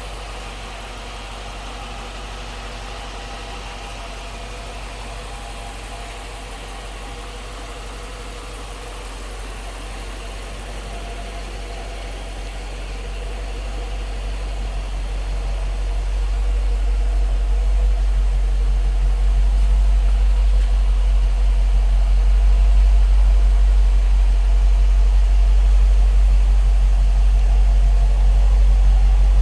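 2008 Dodge Charger's 6.1-litre Hemi V8 idling steadily, a deep even rumble that grows louder from about ten seconds in and then holds level.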